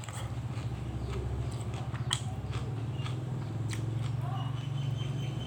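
Close-miked chewing and biting, with a run of short wet mouth clicks, over a steady low hum.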